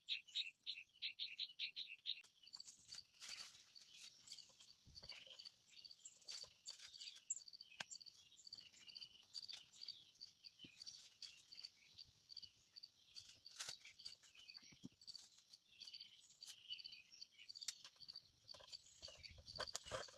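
Faint rainforest insects chirping: a fast pulsing trill for the first two seconds, then a steady, evenly spaced high chirp about two to three times a second. Scattered faint clicks and taps come through in the background.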